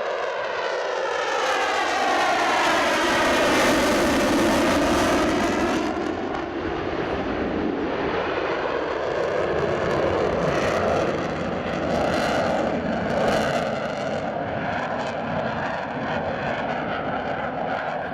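Eurofighter Typhoon twin jet engines running in a continuous roar as the fighter flies past. The roar is loudest from about two to six seconds in, with a sweeping, phasing sound as it goes overhead, then carries on at a steadier level with a few swells.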